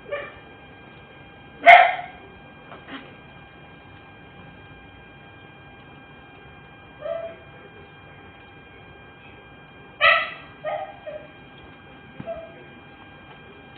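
A dog barking about eight times in short, irregular barks, loudest about two seconds and ten seconds in, over a steady electrical hum.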